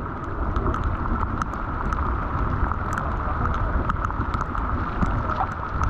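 Steady rush of water and rain, with scattered drops ticking and wind rumbling on the microphone.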